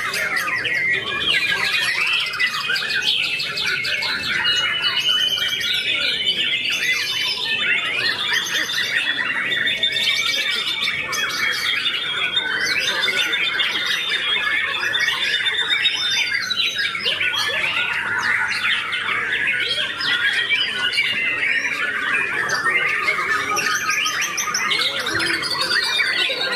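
White-rumped shama singing a continuous, varied song of whistles, rapid trills and sliding notes without a break.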